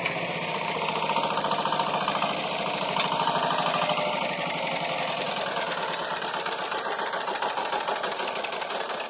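Walk-behind tractor engine running steadily as it drives a rotary tiller through garden soil, a rapid even chugging that grows gradually quieter over the last few seconds.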